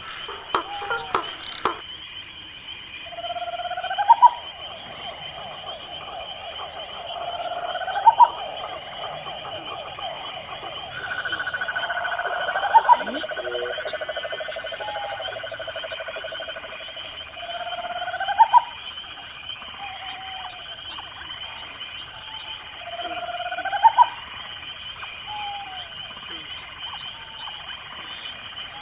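Night chorus of crickets chirring steadily and high. Over it, frogs repeat a short trilled call that ends in a quick upward sweep about every four seconds, with longer low trills in between.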